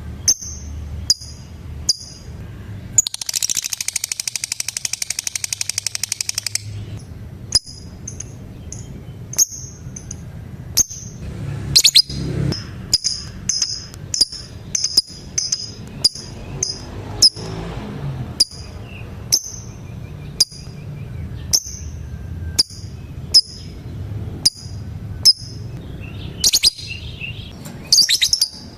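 Female lovebird calling with short, sharp chirps repeated about twice a second, the ticking 'ngetik' call. About three seconds in it breaks into a rapid rattling trill, the 'ngekek', lasting about three and a half seconds.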